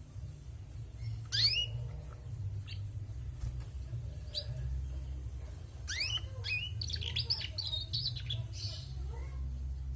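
Female canary calling: short, sharply falling chirps, a few spaced singly, then a quick run of them about six seconds in, over a steady low hum.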